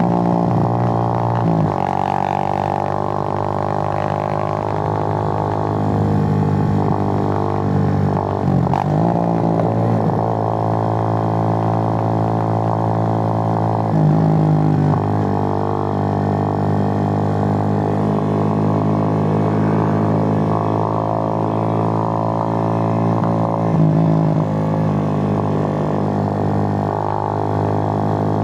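Suzuki GN125's air-cooled single-cylinder four-stroke engine running under way at steady revs, a constant drone. The note dips and climbs back about four times, near the start, about a third and halfway through, and near the end.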